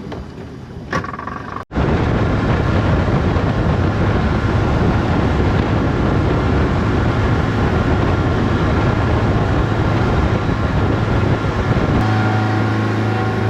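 Motorboat underway at speed: a steady engine drone under loud rushing wind and water noise. Near the end the engine hum comes through steadier and clearer, with an even pitch.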